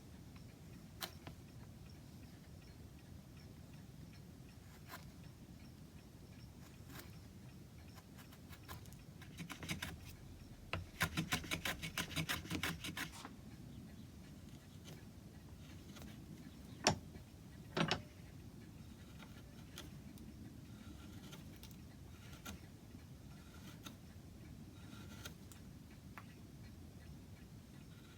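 Small hard objects and hand tools being handled on a workbench: scattered light clicks, a brief clattering rattle about eleven seconds in, and two sharp knocks a second apart a little later.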